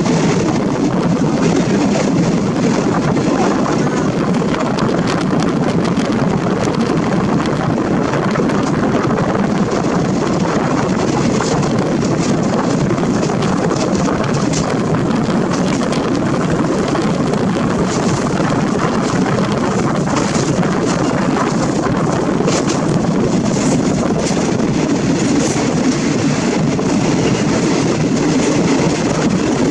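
Passenger train running along the track, heard from an open carriage window: a steady rush of wind and running rumble, with scattered sharp clicks in the second half.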